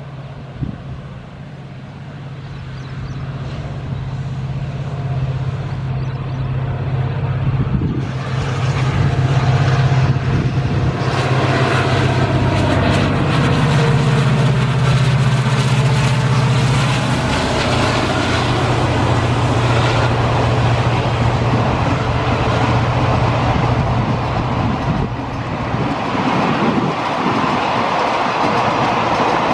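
Diesel locomotive hauling a passenger train past close by. Its engine drone builds as it approaches, is loudest and drops in pitch as it passes about halfway through, then the coaches roll past with a steady rumble of wheels on rail.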